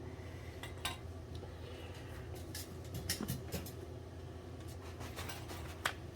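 Scattered light metallic clicks and taps as an oil burner's nozzle assembly is taken apart by hand, over a steady low hum. One click comes about a second in, a cluster around three seconds, and a sharper one near the end.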